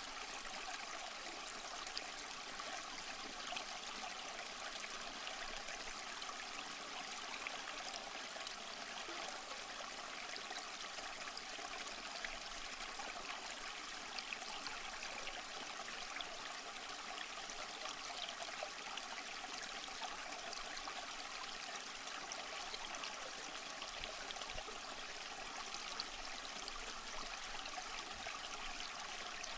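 A small stream flowing: steady, even splashing and trickling water with fine crackle and little low rumble.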